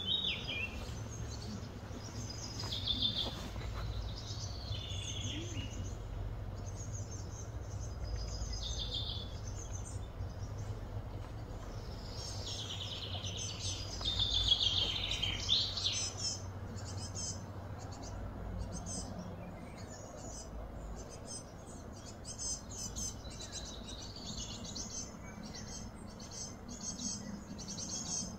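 Birds chirping and calling repeatedly, in short high notes and quick falling sweeps, over a steady low hum.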